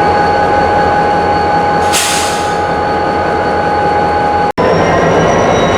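Freight car wheels squealing in steady high tones as rail cars roll through the yard. A short hiss comes about two seconds in. The squeal cuts out for an instant near the end and comes back a little higher in pitch.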